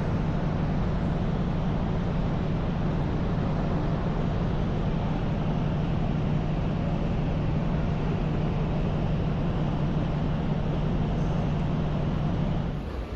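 Steady, unchanging vehicle engine hum: a low drone under an even roar, dropping away near the end.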